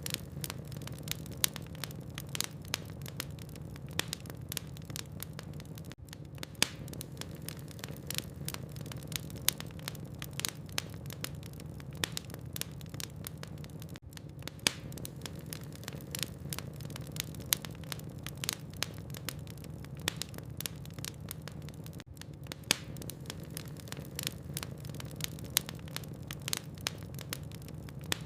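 Logs burning in a fireplace, crackling with frequent irregular sharp pops and snaps over a steady low hum.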